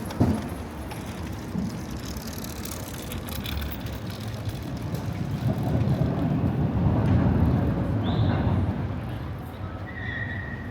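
A motor vehicle passing in street traffic, its low rumble swelling to its loudest about seven seconds in and then fading. A brief sharp knock sounds right at the start.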